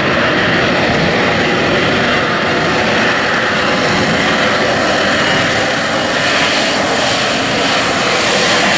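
Aircraft engines running loud and steady as an aircraft flies in an airshow display.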